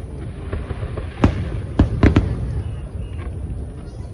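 Fireworks shells bursting: a sharp bang about a second in, then a quick cluster of three bangs around two seconds, over a steady low rumble.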